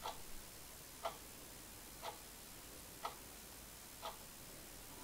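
A clock ticking faintly, one tick each second.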